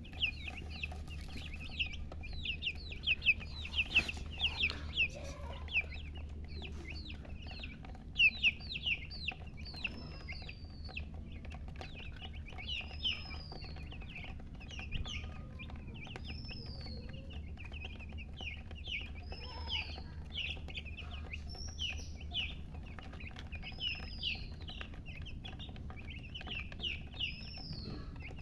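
Baby chicks peeping: many short, high chirps in quick succession, with now and then a longer peep that rises and falls. A steady low hum runs underneath.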